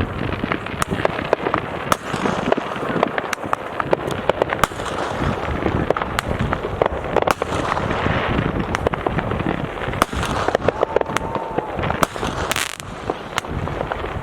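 Consumer fireworks going off: a dense, unbroken run of crackling pops and bangs, many to the second.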